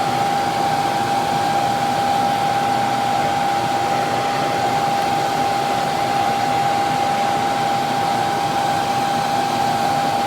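Freshly cleaned electric furnace blower running steadily on a test run, a loud, even rush of air with a steady high whine over it; the furnace is working again after the repair.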